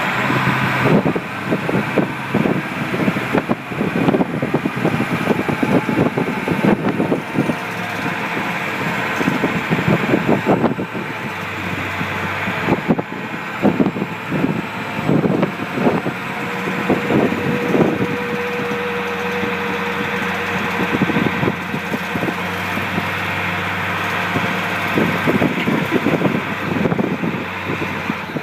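Monster truck's engine running steadily as the truck drives, with many short knocks and rattles from the truck jolting over rough ground.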